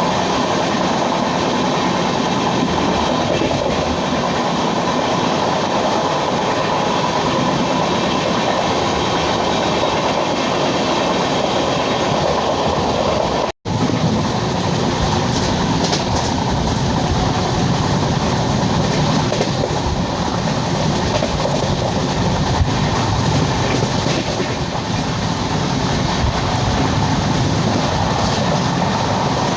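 Azad Hind Express's LHB coaches running on the track: a loud, steady rumble of wheels on rails. The sound cuts out completely for an instant about halfway through, then carries on unchanged.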